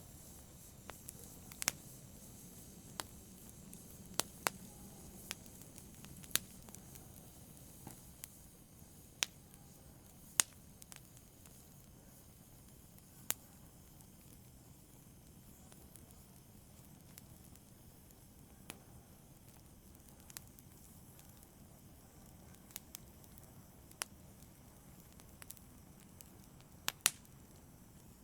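Wood fire burning in a fireplace: a soft steady hiss with sharp, irregular crackles and pops every second or two.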